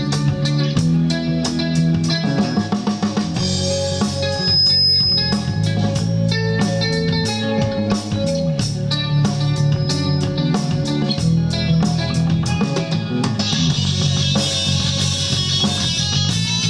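Rock band playing instrumental music: guitar over a drum kit with a steady beat. A bright, hissing layer, like cymbals, joins about three-quarters of the way through.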